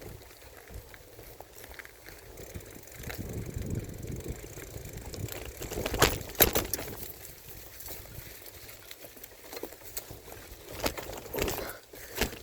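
Mountain bike riding over a dirt trail, heard from a handlebar-mounted phone: a low rumble of tyres and wind, with sharp rattling knocks as the bike jolts about halfway through.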